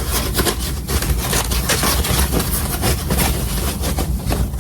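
Rummaging through stored parts in search of a spare furnace sail switch: a quick run of small clicks and knocks as items are handled and shifted, over a steady low rumble.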